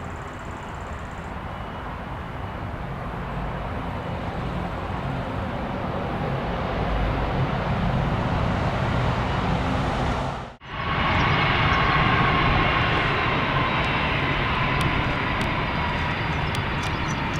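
Jet airliner's engines at take-off thrust, a steady rumble growing louder. After a sudden brief dropout about ten and a half seconds in, the engine noise comes back louder with a steady whine over the rumble.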